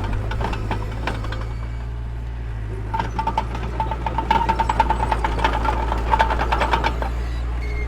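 Heavy-equipment diesel engine running steadily, with a rapid metallic clatter and a thin squeal that grow stronger from about three seconds in and ease near the end.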